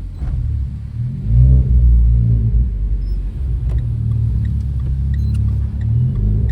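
Renault Clio RS engine and exhaust under throttle: a deep, loud drone whose pitch climbs about a second in, then holds steady.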